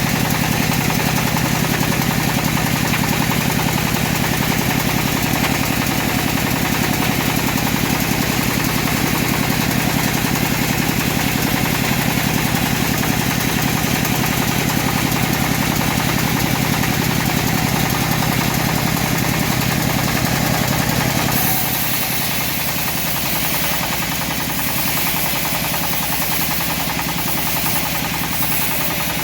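Home-built bandsaw mill running with its engine turning steadily. About two-thirds of the way through, the low engine hum drops and a high hiss grows.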